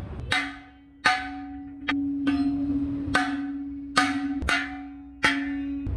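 Hammer blows on a steel truck wheel rim, about eight sharp strikes at an uneven pace, each leaving the metal ringing.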